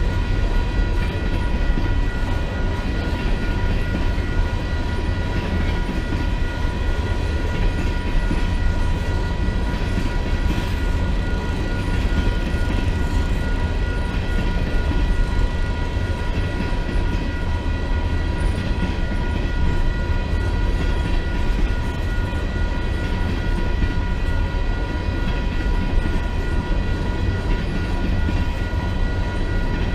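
A train running by, a steady heavy rumble of wheels on rail, with a high, unchanging whine held throughout.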